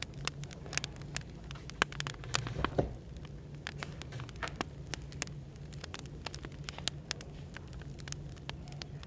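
Wood fire crackling, with many irregular sharp pops and snaps, over a steady low hum of background noise.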